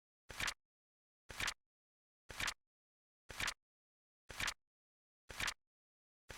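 Flip clock sound effect: one short flip click every second, each a quick double click, with silence between the flips.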